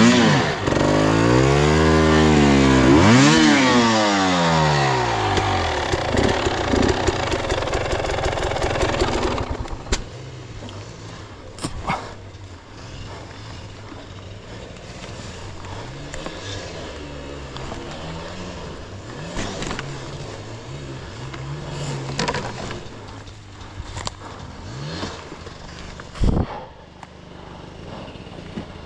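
Two-stroke enduro dirt bike engine revving up and down for the first nine seconds or so, then dropping to a quieter low running with a few short throttle blips and knocks.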